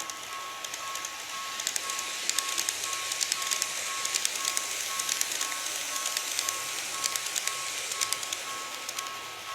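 Model train running on the layout track, its wheels clicking over the rail joints over a hiss that swells in the middle and eases near the end. A model level-crossing warning beeps steadily throughout, a repeating on-off tone.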